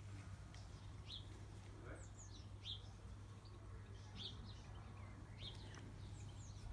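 Small birds chirping faintly, short high chirps that come about ten times at irregular intervals, over a low steady hum.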